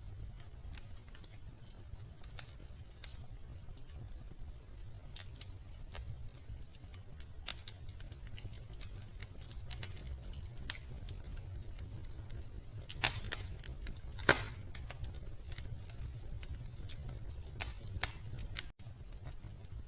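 Wood fire crackling in a fireplace: scattered small crackles over a steady low rumble, with a few sharper, louder pops about two-thirds of the way through. The sound cuts out for an instant near the end.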